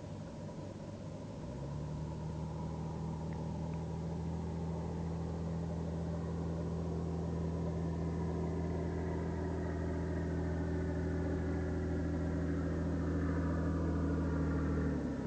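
Cessna 172's piston engine and propeller running steadily as the plane approaches, growing gradually louder, with the pitch sagging slightly in the later seconds before the sound cuts off abruptly near the end.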